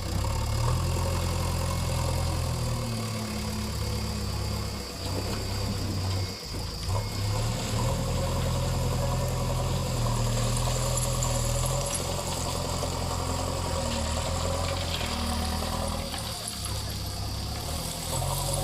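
JCB 3DX backhoe loader's diesel engine running under working load, its engine speed stepping up and down every few seconds.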